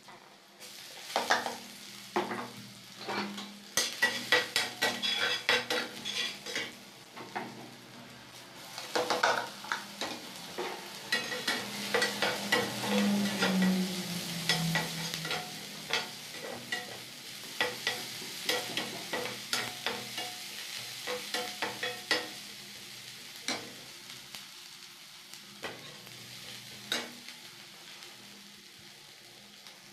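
Food frying in hot oil in a steel wok, sizzling, while a metal spoon scrapes and clatters against the pan in quick, irregular strokes as it is stirred. After about twenty seconds the stirring stops and the frying goes on as a quieter sizzle, with a couple of single knocks near the end.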